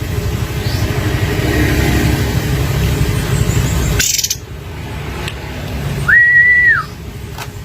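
Low rumbling noise, like traffic or wind, that cuts off suddenly about four seconds in. Then a single clear whistled note, held steady for under a second and louder than anything else.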